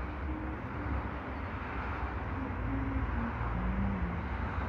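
Low steady rumble of an electric train approaching on the tracks, still some way off and growing slightly louder, with faint short tones over it.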